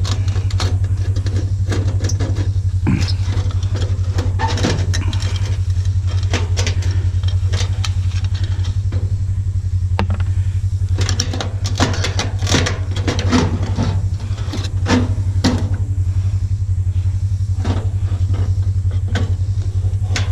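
A steady low hum throughout, like a motor running, with scattered clinks and knocks of metal parts and tools being handled as a stainless steel coffee maker is taken apart.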